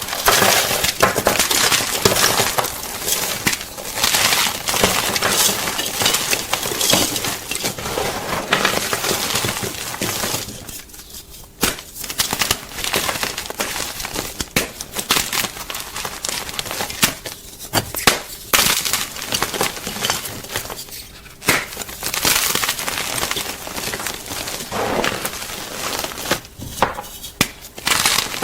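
Gym chalk being crunched: a dense run of dry, crunchy crackles and snaps, with a brief lull about eleven seconds in.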